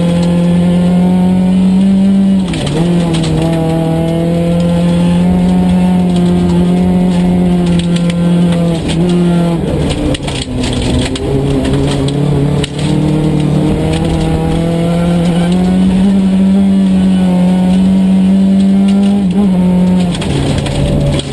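Volvo 242 rally car's engine pulling hard at high revs, heard from inside the cabin. It lifts briefly about two seconds in, backs off and drops a gear near the middle for a bend, then climbs steadily again before another brief lift near the end.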